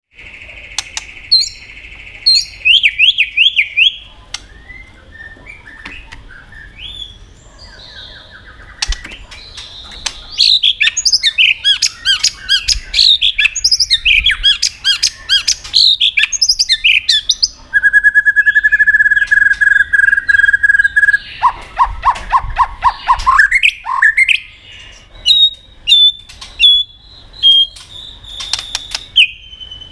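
White-rumped shama singing a long, varied song: quick warbled and trilled phrases, a long steady whistle about two-thirds of the way through, then a run of rising sweeping notes.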